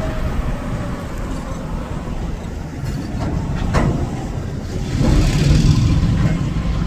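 Low rumble of a moving train, swelling about five seconds in, with one brief sharp sound about four seconds in.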